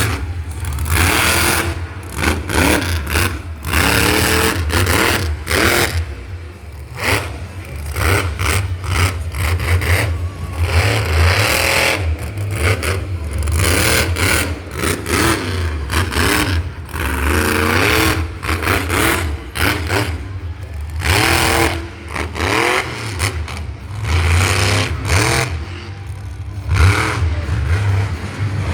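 Engines revving hard again and again, the pitch rising and falling in repeated surges.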